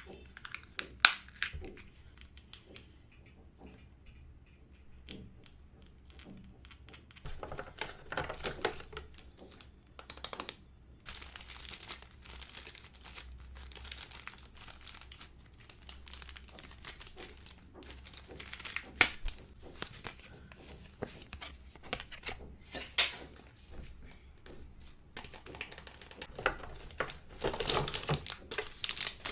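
LOL Surprise toy packaging being unwrapped: plastic wrap crinkling and tearing in irregular bursts, with scattered sharp clicks and taps of small plastic pieces.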